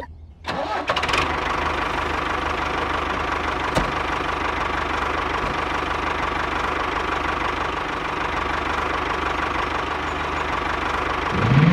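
Engine of a mini tractor running steadily, coming up about half a second in. A rising tone begins near the end.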